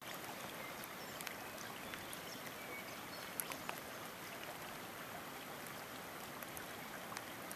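Rain falling on shallow floodwater: a steady hiss with scattered sharp drop ticks, a few louder ones about three and a half seconds in.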